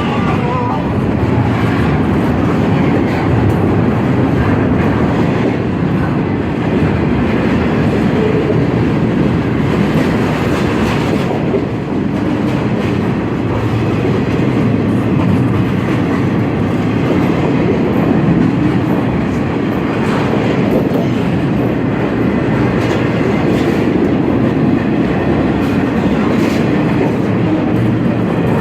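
Ferromex freight train rolling past: a steady, loud rumble of steel wheels on the rails, with faint clicks scattered through it.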